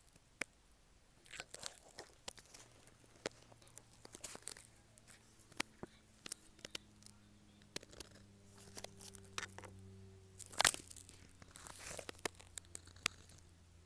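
Dip pen nib scratching on paper during ink drawing: irregular short scratchy strokes and light ticks, the loudest stroke about ten and a half seconds in.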